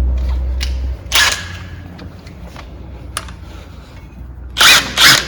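Govoni GO325 air-operated coil spring compressor at work. A low steady hum stops about a second in, followed by a short hiss and a few light clicks. Near the end come several loud, short hissing bursts.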